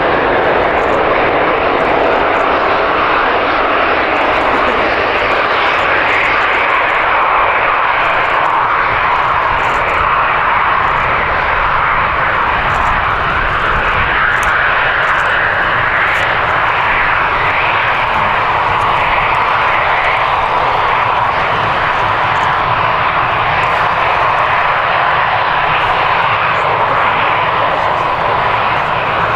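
Airliner jet engines running, a loud, steady rushing noise, with a thin steady whine coming in over the second half.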